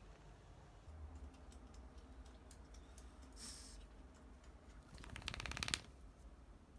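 Small handling noises over a low hum: a brief rustle about halfway through, then a rapid run of rattling clicks for under a second near the end.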